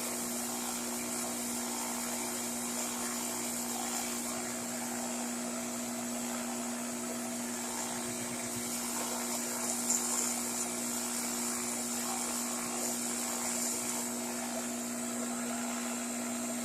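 Craftsman bench grinder running steadily with a constant motor hum, its wheel grinding the rounded top off a steel machine screw.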